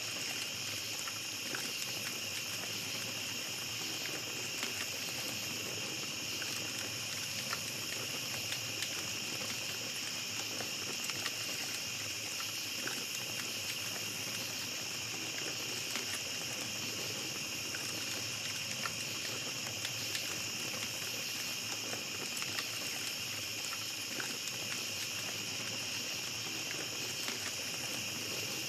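Small campfire crackling, with scattered sharp pops, over a steady high chorus of night insects.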